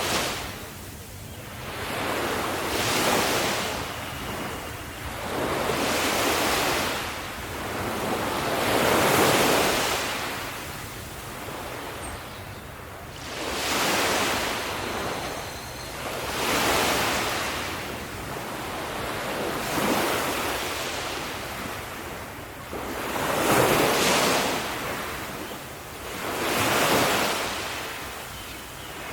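Ocean surf on a beach, waves breaking and washing in one after another, the rush swelling and fading about every three to four seconds.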